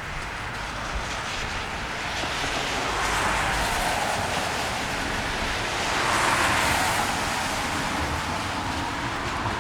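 Cars passing on a rain-soaked street, their tyres hissing on the wet road, swelling twice, about three and six seconds in.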